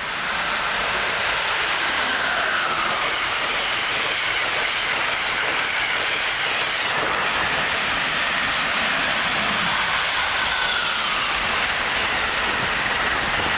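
Amtrak Acela Express high-speed trainset passing close by at speed: a steady, loud rush of steel wheels on rail with clickety-clack, and a high whine that drifts up and down in pitch.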